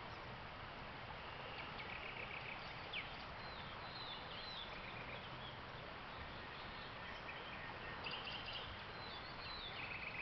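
Nightingales singing: short phrases of rapidly repeated notes and brief downward-sliding whistles, coming every second or two over a steady background hiss.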